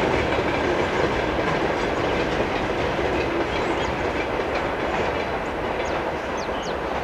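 Freight train of tank cars rolling past, its wheels clattering steadily over the rail joints, the sound easing slightly toward the end.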